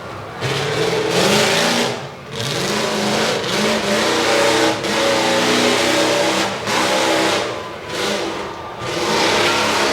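Truck engine revving hard in repeated surges, each climbing in pitch, with short drops in between as the throttle is let off and opened again.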